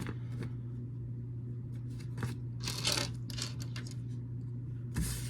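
Small plastic building-brick pieces being handled, with light clicks and a rustle about two to three seconds in, over a steady low hum.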